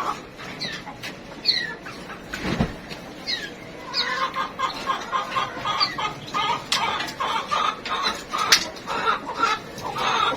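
Domestic hens clucking, a run of many short repeated calls that grows busier about four seconds in, with some higher thin chirps mixed in.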